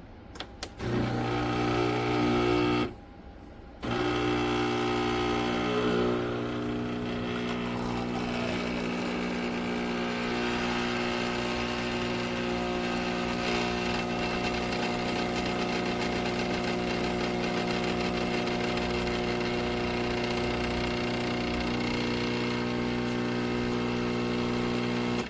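Electric ice cream maker running, its motor giving a steady hum. The hum breaks off for under a second about three seconds in, then carries on unchanged.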